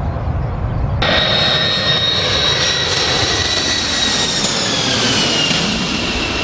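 Jet airliner's engines passing close by: a rush of engine noise carrying a high turbine whine that drops in pitch in the second half. About a second in, a low rumble cuts off suddenly as the jet sound begins.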